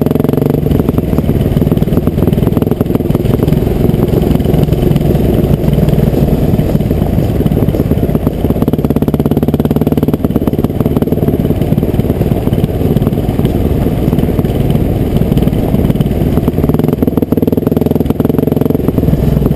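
Honda CR500 two-stroke single-cylinder motocross engine running loud and continuously, with a rapid popping exhaust pulse. The engine note is steadier near the start and again near the end.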